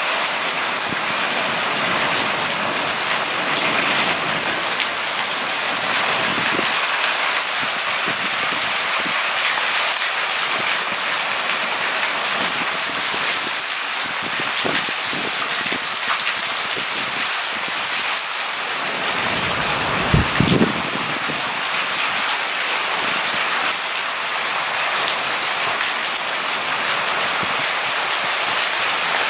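Heavy rain falling steadily in a thunderstorm, a dense even hiss. About two-thirds of the way through there is one brief low thump.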